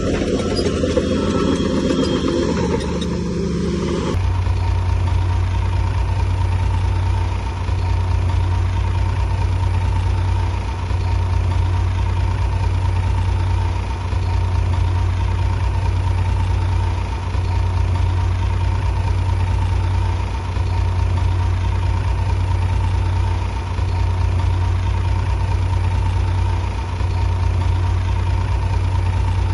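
Bulldozer's heavy diesel engine running steadily, a low drone with a faint steady whine above it, swelling and dipping slightly every three seconds or so. About four seconds in, a busier, different machine sound cuts off abruptly and the engine continues alone.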